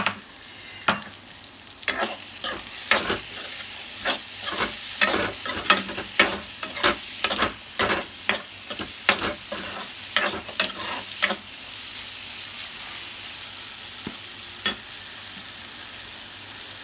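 Masala sizzling in hot oil in a kadai while it is stirred, a utensil scraping and knocking against the pan about twice a second. The stirring stops about eleven seconds in, leaving the steady sizzle of the masala browning.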